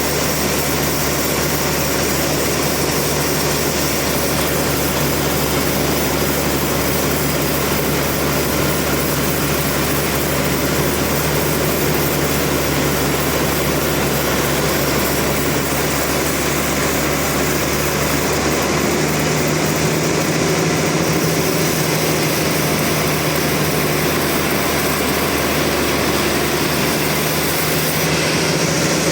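Sawmill machinery running steadily under load: a constant engine drone with a dense, hissing saw noise over it. The engine's pitch steps up slightly about two-thirds of the way through.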